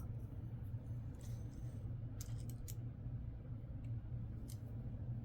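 Faint, scattered light clicks of nickels being handled and set down, over a steady low hum.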